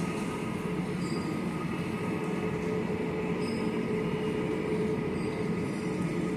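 Steady mechanical drone, an even rumble with a held whine that does not change in pitch.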